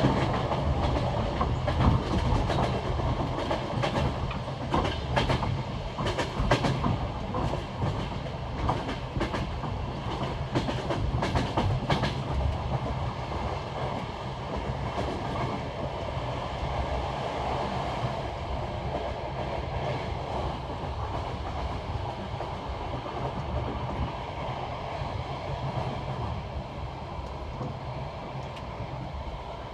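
Passenger train wheels clacking over the joints of jointed (unwelded) rail, over a steady rolling rumble. The sharp clacks come thick in roughly the first twelve seconds, then grow sparser.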